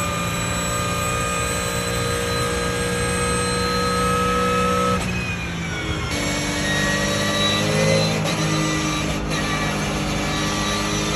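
A car engine pulling hard, its pitch slowly rising; about five seconds in it drops sharply as it shifts up a gear, then climbs again.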